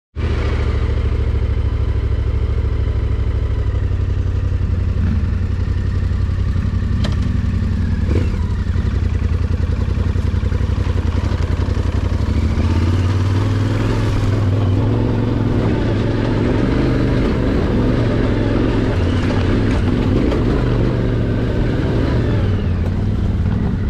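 Yamaha Ténéré 700's parallel-twin engine running steadily at low revs while riding a rough trail, heard from on the bike, with a few sharp knocks.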